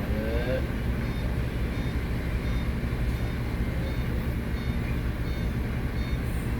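Bus running with a steady low rumble.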